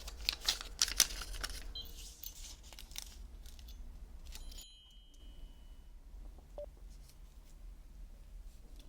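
Adhesive bandage and its paper wrapper being peeled and crinkled close to the microphone, crackling densely for about the first two seconds, then only faint scattered clicks.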